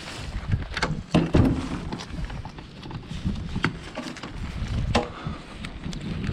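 A handful of sharp knocks and clunks, the loudest about a second in, over wind buffeting the microphone.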